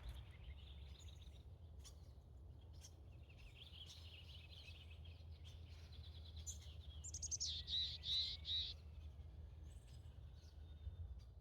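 A songbird singing a run of high chirping phrases, loudest in a quick looping phrase about two-thirds of the way through, over a steady low rumble.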